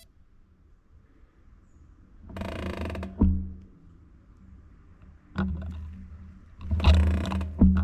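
Bicycle freehub ratcheting in two bursts of rapid clicking while coasting, with a few sharp knocks over a low rumble.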